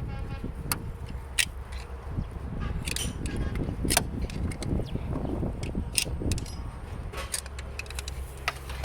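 Scattered short metallic clinks and taps of hand tools working on a car engine, over a steady low rumble.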